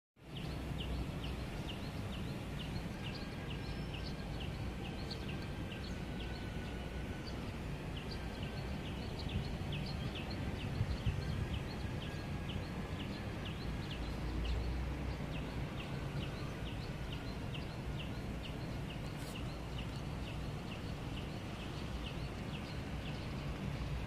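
Outdoor ambience: a steady low rumble, with a bird repeating short high chirps about twice a second that break off briefly about halfway through.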